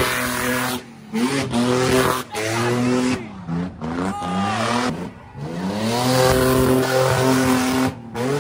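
A car engine revving hard in several bursts, each climbing quickly and holding high before briefly dropping off, with the tires squealing as the car spins donuts.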